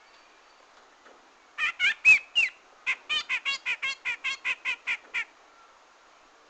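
Grey-cheeked bulbul (cucak jenggot) calling. About one and a half seconds in come four loud notes, one with a short rising-and-falling slur. Then a quick run of about a dozen notes, some five a second, stops about five seconds in.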